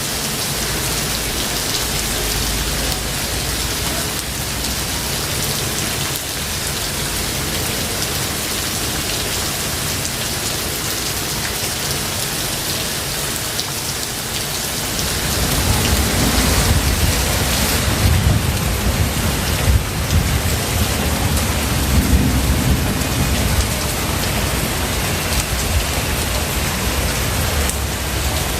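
Steady heavy rain falling. About halfway through, a long low rumble of thunder rolls in and lasts several seconds before easing.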